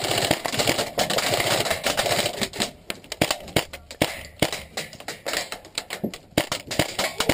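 Airsoft gunfire with BBs striking around the tower: a dense, rapid rattle for the first two seconds or so, then many scattered sharp cracks.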